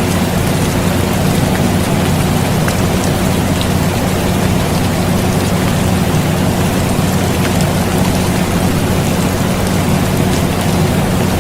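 Steady rain with scattered drop ticks, layered over the even low hum of an air conditioner.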